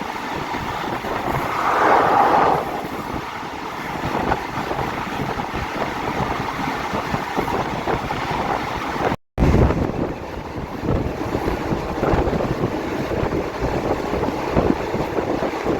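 Rapid train 167 running along the line, heard from on board: a steady rumble of the carriages with wind buffeting the microphone, swelling briefly about two seconds in. The sound cuts out for a split second about nine seconds in.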